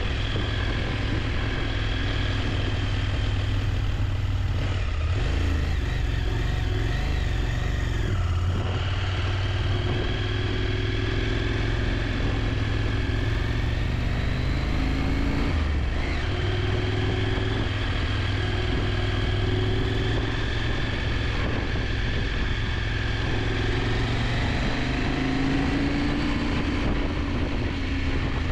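KTM 890 Adventure's parallel-twin engine running steadily under way, its note rising and falling with the throttle.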